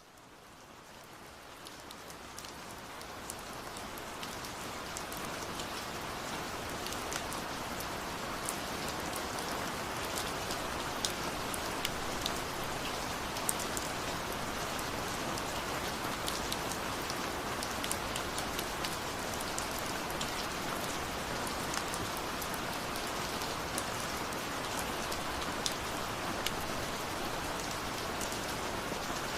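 Steady rain falling, fading in over the first few seconds, with scattered sharp drop impacts ticking over the even hiss.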